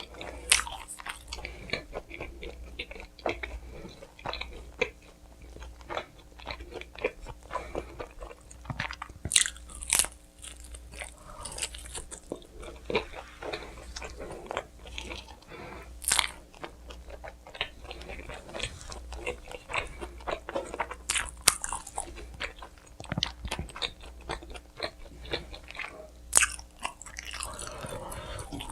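Close-miked eating of pizza: irregular crunchy bites and steady chewing, with a few louder crunches spread through.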